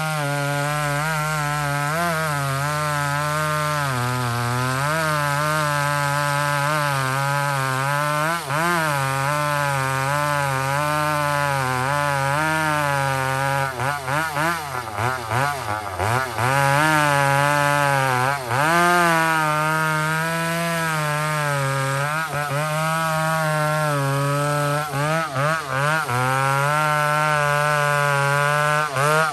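Two-stroke chainsaw held under load cutting wood, its engine speed wavering as the bar bites. About halfway through, the revs drop and pick up again several times before steadying.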